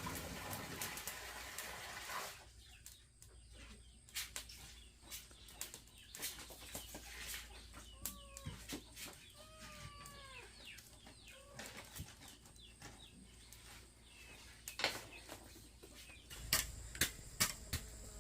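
Birds calling, a few short curved chirps about halfway through, among scattered sharp clicks and knocks; a steady noisy hiss fills the first two seconds.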